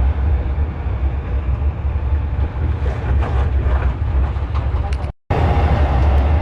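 Steady low rumble of a tourist train on the move, with a few faint clicks and a split-second dropout in the sound about five seconds in.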